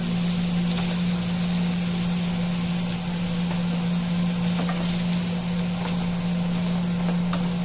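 Onions and tomatoes frying in a nonstick pan, a steady hiss over a constant low hum, with a few faint scrapes of a wooden spatula.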